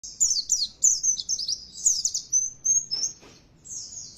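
White-eye (pleci) song: rapid, high twittering made of quick falling notes in fast runs, with a short lull near the end. It is a lure recording meant to set caged white-eyes singing.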